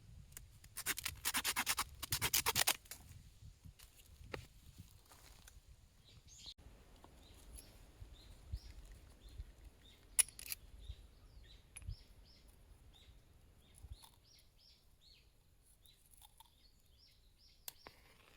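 A quick run of rapid rasping strokes for about two seconds near the start. Then small birds chirp over and over, with short high notes.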